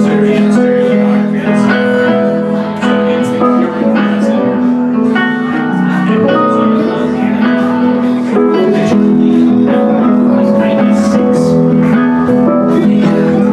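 Live band music with a strummed guitar, played loud and without a break.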